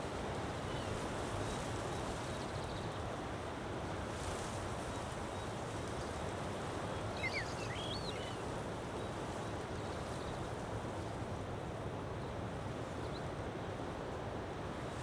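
Steady rushing outdoor noise, with a few short high chirps about seven seconds in.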